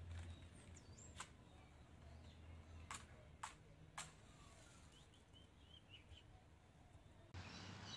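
Quiet outdoor ambience with faint bird chirps. Four sharp clicks sound in the first half.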